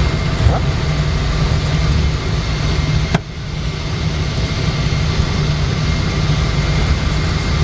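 Steady low rumble of a Boeing 777-200 heard from inside the cabin, engines and air conditioning running, with a single sharp knock about three seconds in.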